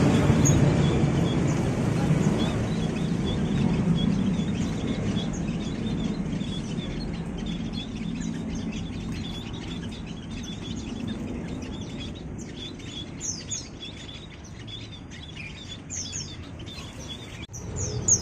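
Many small caged songbirds chirping and tweeting in short high calls, over a low rumble that fades away over the first several seconds.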